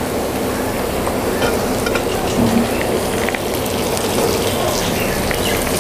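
Dheki shak (fiddlehead fern greens) sizzling in hot oil in a kadai just after being added, a steady frying hiss with a few light ticks.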